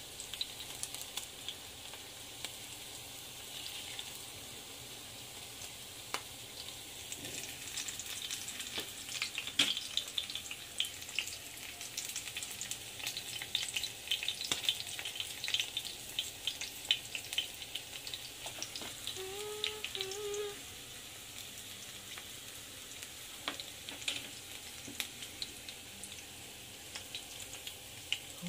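Corn fritters shallow-frying in hot oil in an enamelled cast-iron skillet: a steady sizzle with frequent crackles and pops, busiest through the middle stretch.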